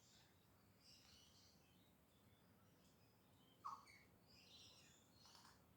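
Faint galah calls: scattered soft chirps and screeches, with one short, louder call about two-thirds of the way in.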